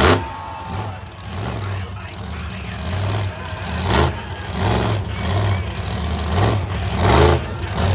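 Monster truck engine running and revving, a low rumble that rises and falls, with three sharp loud surges: at the start, about four seconds in and about seven seconds in.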